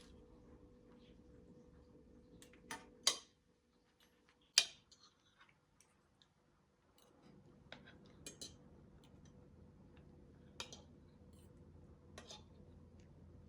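Scattered light clicks and knocks of small objects being handled, the loudest two about three and four and a half seconds in, over a low steady hum.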